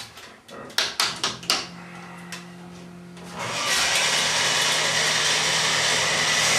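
A few sharp knocks, then a steady whir, and from about three and a half seconds a loud, steady mechanical noise as the big-block drag engine on the dyno starts up and runs.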